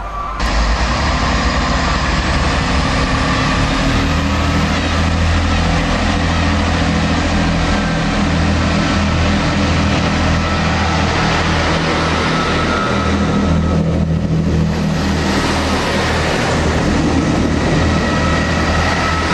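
Class 158 diesel multiple unit moving along a station platform: its diesel engines give a steady low drone over the noise of the wheels on the rails. The sound comes in suddenly about half a second in and stays loud and even throughout.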